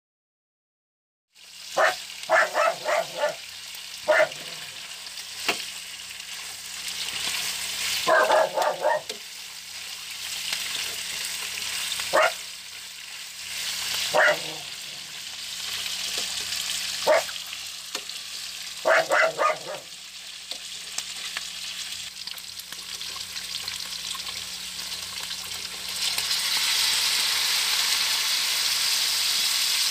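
Beef slices frying in a pan, sizzling steadily, starting about a second and a half in. Several short loud bursts and sharp clicks break the sizzle through the middle. Near the end the sizzle turns louder and steadier as the meat's marinade goes into the pan.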